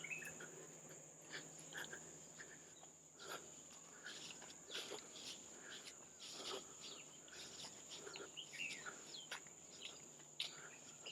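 Faint tropical forest ambience: a steady high-pitched insect drone, with scattered soft clicks and a few short bird chirps.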